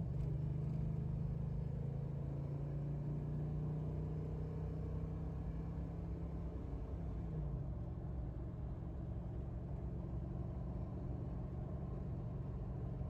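Chevy Tahoe's V8 with a MagnaFlow muffler, running under way as heard from inside the cabin with the windows up. The engine note holds steady, dips and recovers briefly about seven seconds in, as at a gear change, and steadies again.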